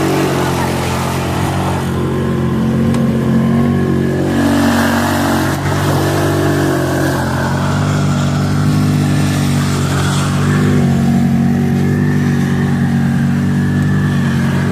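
Car engine running steadily while the vehicle drives, its pitch stepping up and down a few times.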